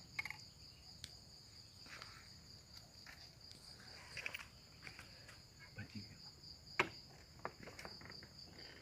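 Steady high-pitched insect chorus of crickets, with a few faint clicks and rustles nearby; the sharpest click comes about seven seconds in.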